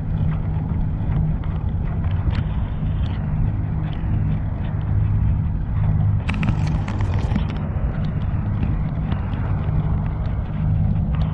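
City street traffic and riding noise on a bicycle: a steady low rumble, with a brief hissing burst about six seconds in.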